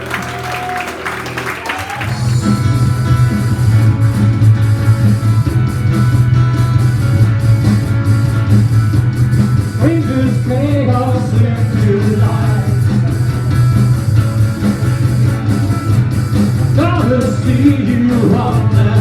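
Live rock band playing an instrumental passage with no sung words. A steady, loud low bass comes in about two seconds in, with melodic electric guitar phrases over it.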